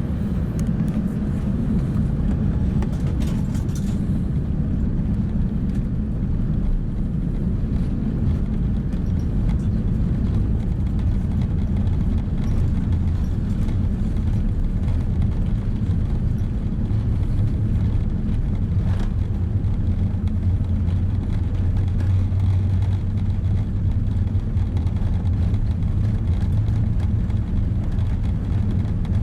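Steady low rumble of an Airbus A380's engines and airflow heard inside the passenger cabin. The deepest hum shifts lower about ten seconds in.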